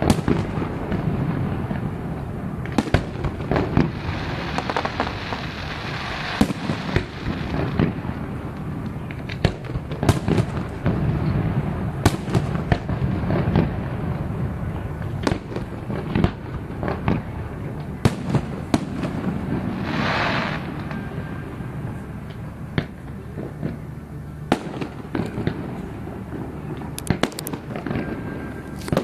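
Fireworks display: shells bursting in sharp bangs at irregular intervals over a continuous low rumble, with a stretch of crackling hiss a few seconds in and a short hiss about two thirds of the way through.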